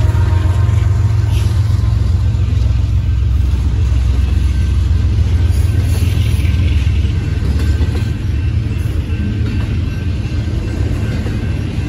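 Union Pacific double-stack intermodal freight train passing close by with a steady, heavy low rumble. The trailing diesel locomotive goes by first, then the container well cars roll past.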